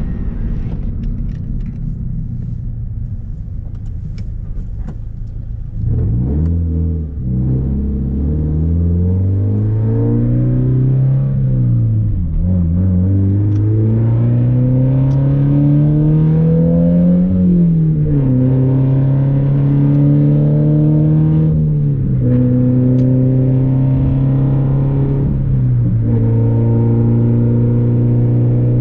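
Scion FR-S flat-four engine with its muffler and resonator deleted, running low with a few sharp crackles at first. After about six seconds it accelerates through the gears: the pitch climbs, drops back at each upshift, then holds steady at cruise with two more drops in pitch later on.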